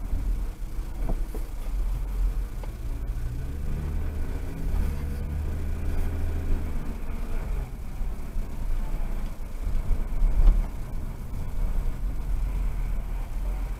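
Car driving: a steady low engine and road rumble, with the engine note shifting in pitch about four to seven seconds in.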